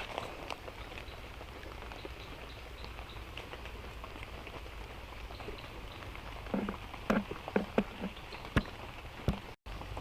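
Light rain falling steadily, with scattered small drop ticks. About two-thirds of the way in comes a short run of louder knocks, followed by a couple of sharp clicks and a brief break in the sound near the end.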